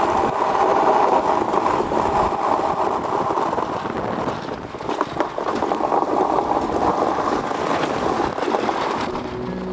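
Iceboat runners rushing over lake ice at speed, a steady grinding rumble with a few sharp knocks about halfway through as the boat rides over bumps in the ice. Near the end the rumble fades out.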